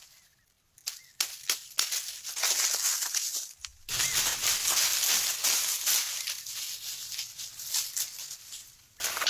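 Dry forest litter, leaves and twigs, crunching and crackling as it is handled or trodden. It starts with scattered sharp snaps, then becomes a dense, continuous crunching from about four seconds in.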